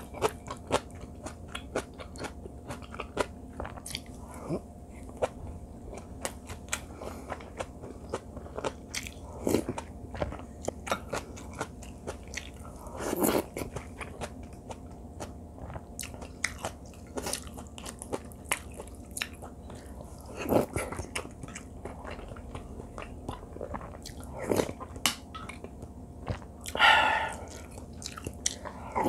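Close-miked eating: chewing and crunchy bites of rice mixed with seasoned greens, with small sharp spoon and chopstick clicks against the bowls. Near the end comes the loudest sound, a brief slurp as a spoonful of doenjang stew broth is sipped.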